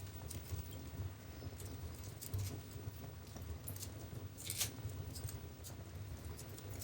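Wood fire crackling in a fireplace: irregular sharp pops and snaps, the loudest about four and a half seconds in, over a low steady rumble of the flames.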